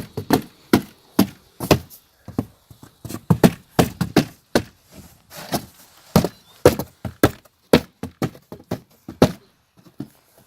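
A hammer beating on a cardboard box: a fast, irregular run of thuds, about two or three a second, that stops about a second before the end.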